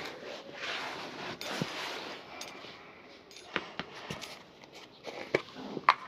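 Brush scrubbing over a shoe during a shoe shine for about two seconds, then scattered light taps and clicks.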